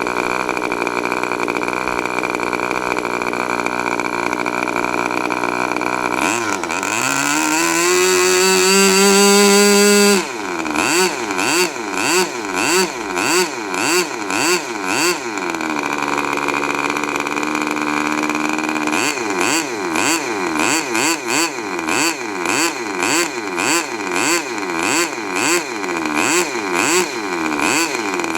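K&B .40 RC two-stroke glow model engine running: steady at first, then its pitch rises to a loud high-speed run and drops suddenly about ten seconds in. After that the pitch swings up and down about one and a half times a second, settles briefly, then swings again.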